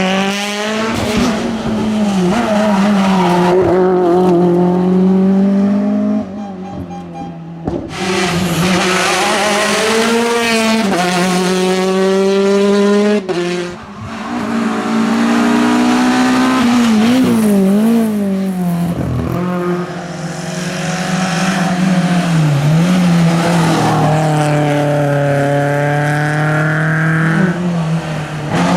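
Rally cars driven hard one after another on a tarmac stage: engines revving high, pitch climbing and dropping sharply through gear changes and lifts, with some tyre squeal. There are short breaks in the sound about 6 s, 14 s and 20 s in.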